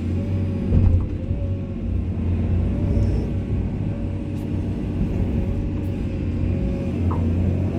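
Komatsu excavator's diesel engine running steadily under load, with a wavering whine above the rumble and a brief louder knock about a second in.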